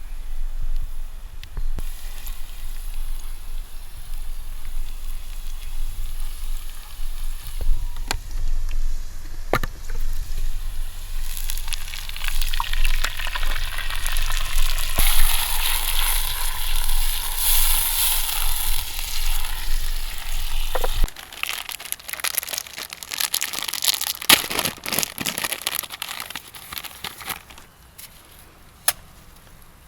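Food sizzling in a frying pan over a campfire, a steady hiss with scattered crackles. The sizzling grows fullest in the middle, and a low rumble beneath it cuts off sharply about two-thirds through, leaving a thinner, quieter hiss.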